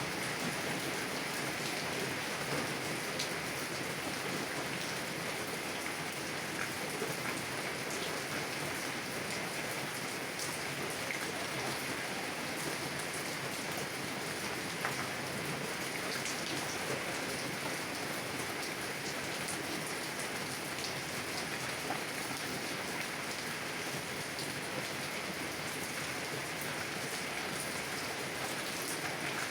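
Heavy rain drumming steadily on a car's roof and windows, heard from inside the car, with a dense hiss and scattered sharper drop ticks.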